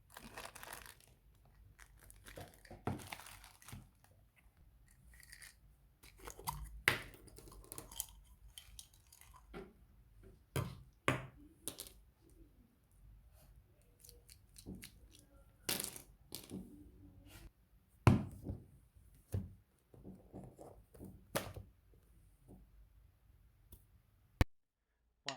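Scattered small knocks, taps and paper rustling as things are handled and set down on a desk, with a couple of sharper knocks standing out.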